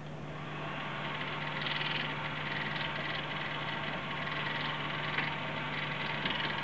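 ATI Radeon HD 5850 graphics card cooling fan spinning up and running faster, with a harsh clacking rattle over its whir. The noise grows louder about a second in. The clacking is a fan fault, not loose cables or a badly seated card, and it goes away when the tower is tilted slightly.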